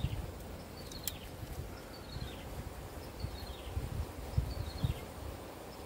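A bird repeating a short falling call about once every second or so, over soft low thumps and rustling, with one sharp click about a second in.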